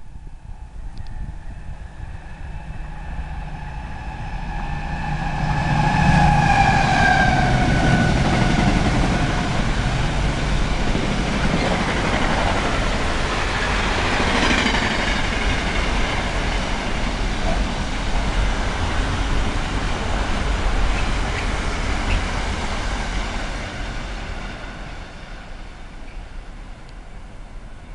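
Container freight train passing at speed. The locomotive's tones fall in pitch as it goes by, then the wagons make a long steady rolling noise on the rails that fades as the train draws away near the end.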